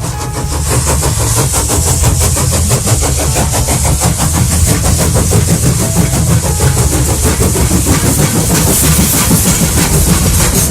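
A train engine running: a steady mechanical noise with a fast, even rhythm and a hiss over it.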